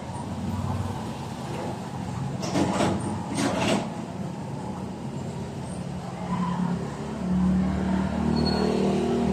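Car engine running, with two short hissing bursts about two and a half and three and a half seconds in.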